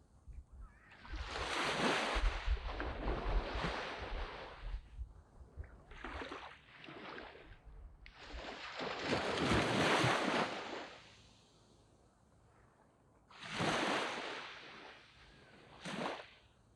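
Waves breaking and washing up on a sandy beach. They come in as separate surges of surf a few seconds apart, the last two shorter.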